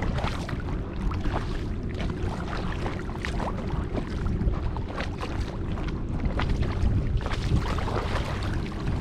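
Kayak paddle strokes: water splashing and dripping off the blades, over a steady low rumble of wind on the microphone.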